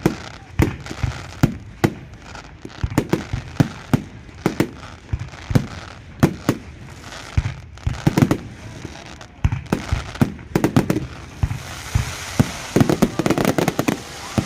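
Fireworks display: shells bursting in quick, irregular bangs, several a second. About twelve seconds in they thicken into a dense crackle.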